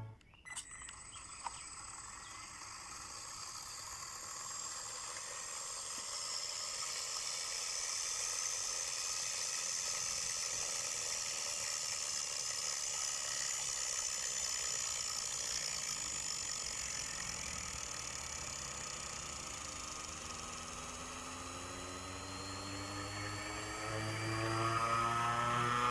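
Brushless electric motor of a 1/4-scale RC dirt bike running with a high-pitched whine that drifts slowly in pitch; in the last couple of seconds a louder whine rises in pitch as it speeds up.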